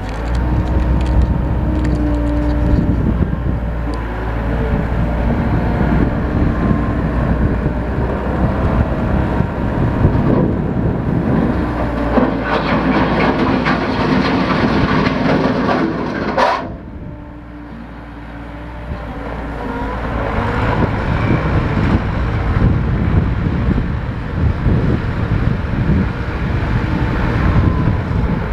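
Mustang 2060 skid steer running, its engine drone mixed with rattling and clanking from the machine. About two-thirds of the way through it goes suddenly quieter, then builds back up gradually over several seconds.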